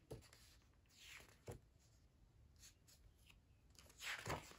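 Near silence with faint rustling of paper and a few soft taps, the pages of a picture book being handled and turned; the loudest rustle comes about four seconds in.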